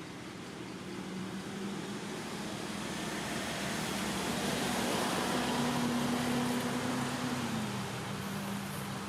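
Motor vehicle engine going past, its hum swelling to a peak mid-way and then falling in pitch near the end as it moves away.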